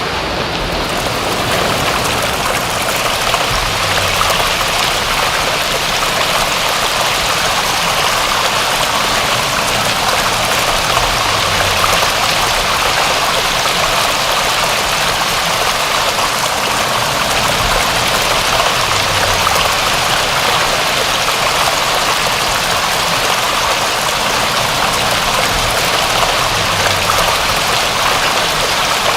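Steady rain falling: an even, unbroken wash of water sound.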